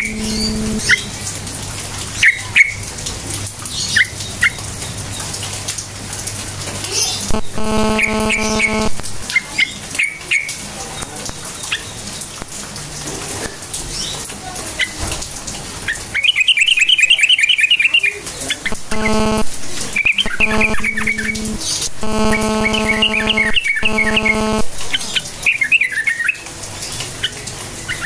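Yellow-vented bulbul (trucukan) calling in quick bubbling chirp phrases, loudest in the second half, over a steady hiss. A low droning tone with overtones comes and goes several times.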